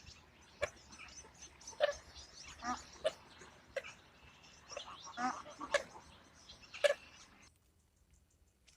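A string of short, sharp animal cries, about a dozen, that stops abruptly about seven and a half seconds in.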